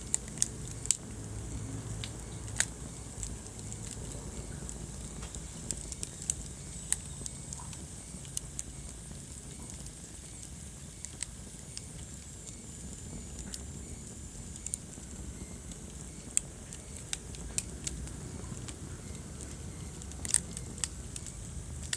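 Wood fire burning in a fireplace: irregular sharp crackles and pops over a steady low rumble of the flames, with a brief cluster of pops near the end.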